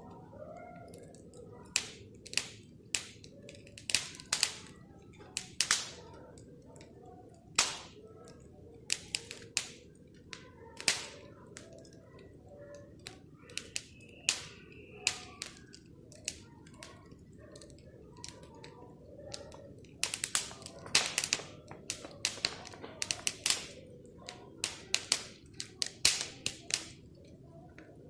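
Wood bonfire crackling, with sharp irregular pops and snaps over a steady low rumble of the flames; the pops come thicker in the second half.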